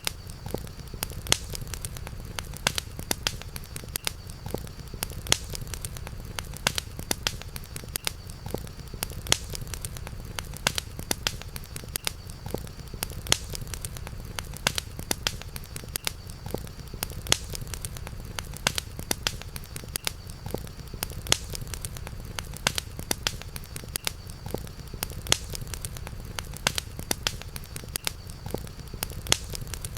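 Campfire crackling: frequent irregular sharp pops and snaps over a steady low rumble, with a faint steady high-pitched tone underneath.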